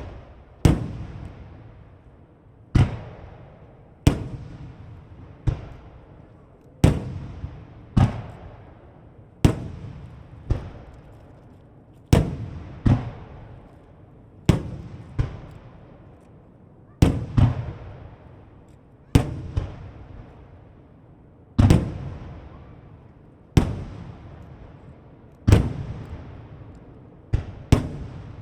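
Starmine fireworks display: aerial shells bursting one after another, about one sharp bang a second at an uneven pace, sometimes two close together. Each bang trails off in a long rolling echo.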